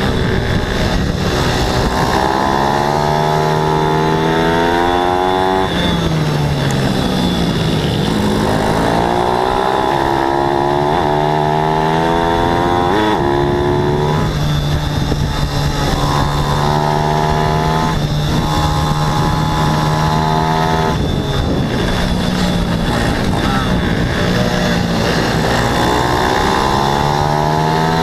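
Racing pit bike engines, likely single-cylinder four-strokes, revving hard. The pitch climbs and drops back again and again as the riders shift gears and brake for corners. A second, steadier engine note overlaps in the middle stretch.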